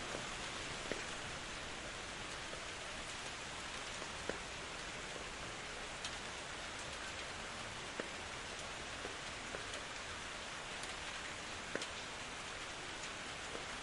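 Steady rain falling, an even hiss with scattered sharp drip ticks, a few louder drops standing out here and there.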